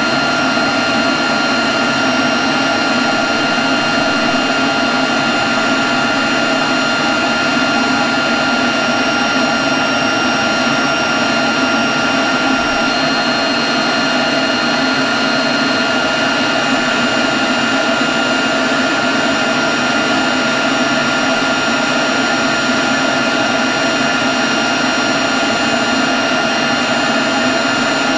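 Leaf blower running at a constant speed: a steady rush of air with a steady high whine over it.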